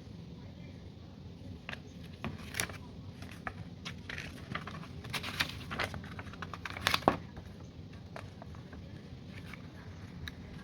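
Paper rustling and crinkling as an instruction manual is handled, with scattered clicks and taps, the loudest about two-thirds of the way in.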